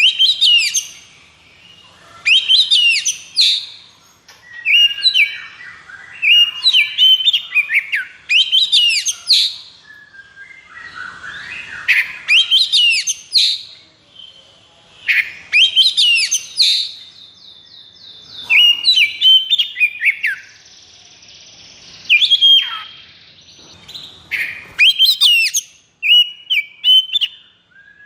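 Oriental magpie-robin (kacer) song: loud, varied whistled phrases in quick succession, with a rapid rattling trill about seventeen seconds in.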